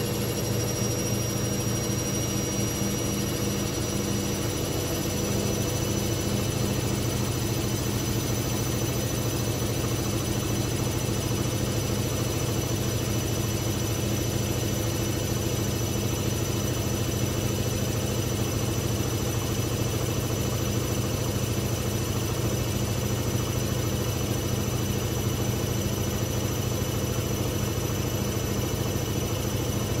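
Hoover VisionTech washing machine in a fast spin, running steadily with a low vibrating hum and a thin high motor whine that climbs slightly over the first few seconds and then holds.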